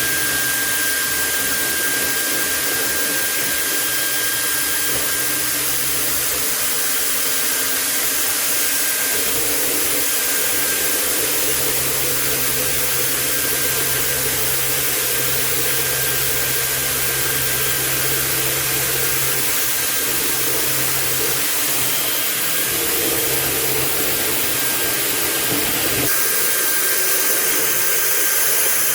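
Electric drill motor running steadily with a strong airy whirr, its tone shifting slightly near the end.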